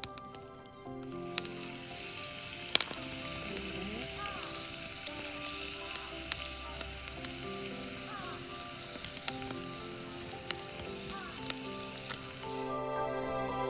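Campfire hissing and sizzling with scattered sharp crackling pops; the hiss stops abruptly near the end.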